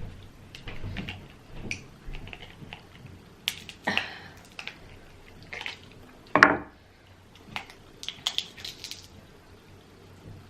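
Eating a sauce-covered seafood boil by hand: wet, squishy shell-peeling and chewing sounds with scattered clicks and cracks. The loudest is a short, sharper sound a little past halfway.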